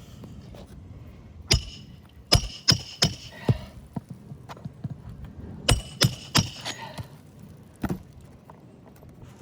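Hammer blows on a steel snake bar, driving roofing nails back down under a shingle: two quick runs of about four or five sharp, ringing metal strikes, then one more strike near the end.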